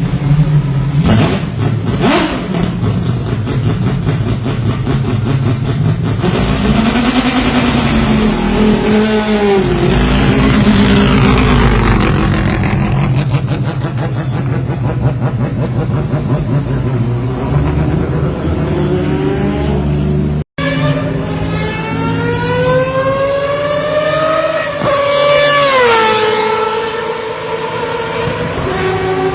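Mazda 787B race car's four-rotor rotary engine running loud, blipped up and down in a few swells. After a cut it accelerates with a long rising note that drops sharply at a gear change and climbs again.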